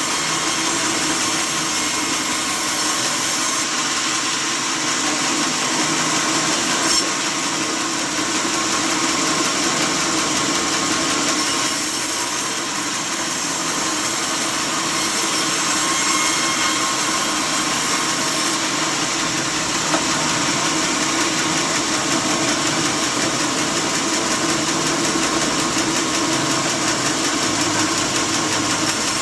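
Sawmill saw machinery running steadily, with a brief sharp click about seven seconds in.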